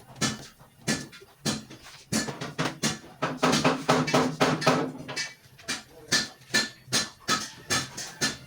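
Hammer blows on metal, irregular, about two or three a second, some with a brief ring, with a low steady tone under them through the middle.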